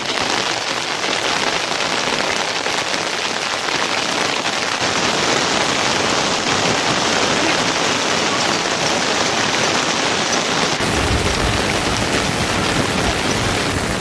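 Heavy rain falling steadily. About three-quarters of the way in the sound changes abruptly and takes on more low rumble.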